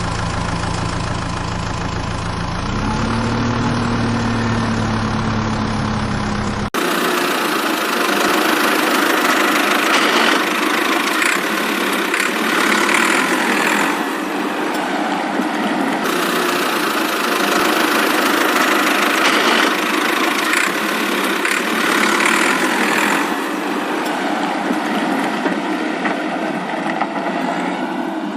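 Engine running at a steady idle, its low hum stepping up in pitch about three seconds in. Near seven seconds it cuts abruptly to a different, higher-pitched mechanical running sound with no deep hum, which goes on with slight rises and falls.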